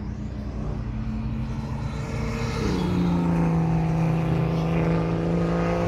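Track-day car engine running on the circuit, holding a steady note that steps down to a lower, louder note a little past halfway, growing louder as it approaches.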